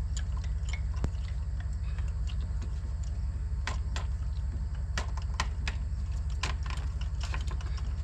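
Irregular light metallic clicks and clinks of hand tools working at a spark plug on the engine, over a steady low hum.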